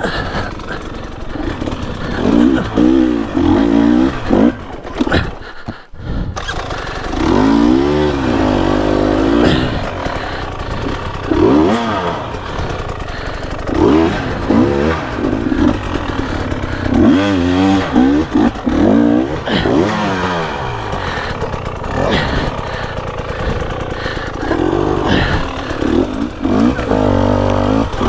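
Dirt bike engine revving up and falling back again and again as the rider works the throttle, with a brief drop-out about six seconds in.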